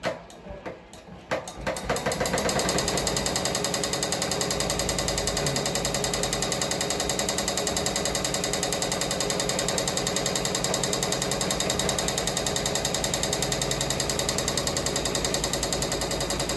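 Ricoma MT-1501 15-needle embroidery machine stitching at speed, its needle bar hammering in a fast, even rhythm. It starts up about two seconds in after a few light knocks and stops abruptly at the end.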